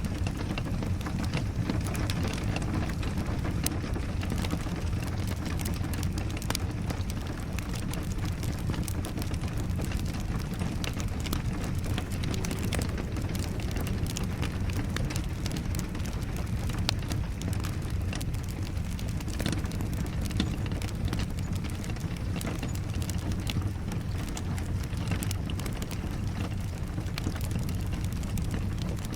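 Rain and a crackling wood fire: a steady low rush with many small, sharp crackles and ticks scattered through it.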